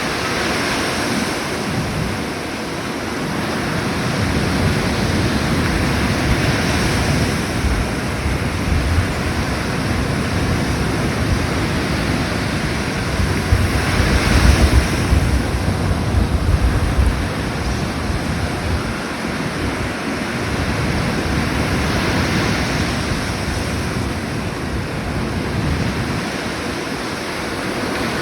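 Sea waves washing onto a shore in a steady, swelling surf that is loudest about halfway through. Wind buffets the microphone with a low rumble.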